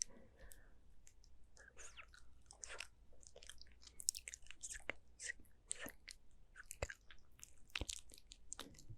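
Close-miked ASMR mouth sounds: quiet, wet clicks and smacks of the lips and tongue, coming irregularly and in quick clusters.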